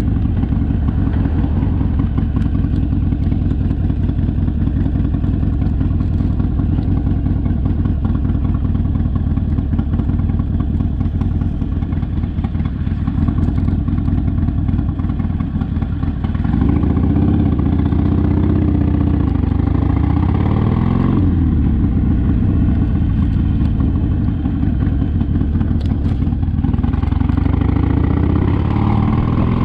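Harley-Davidson Sportster's V-twin engine running on the move; a little past halfway it gets louder and its pitch rises and falls as the bike accelerates through the gears, then it settles back to a steady run.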